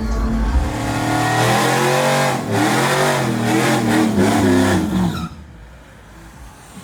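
A car engine revving hard and accelerating, its pitch climbing and dropping several times, then cutting off suddenly about five seconds in.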